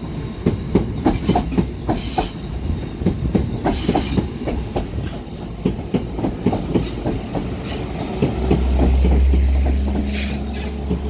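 Train wheels clattering over rail joints and pointwork in quick, uneven clicks. About eight seconds in, a low diesel engine drone swells up as a Class 197 diesel multiple unit pulls away.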